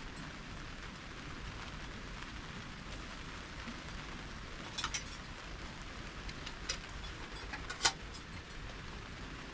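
Steady rain falling, an even hiss, with a few sharp ticks or taps standing out about five and eight seconds in.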